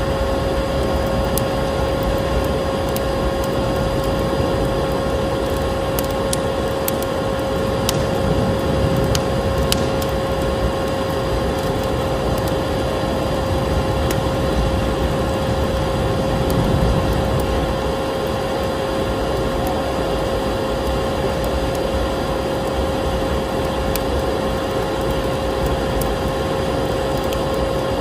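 Vacuum cleaner running steadily with a constant whine, mixed with the scattered crackles and pops of a wood fire.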